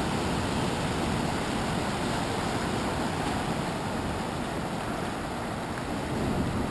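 Ocean surf from a large swell at high tide: a steady rushing wash of breaking waves, with deep rumble underneath, building slightly near the end.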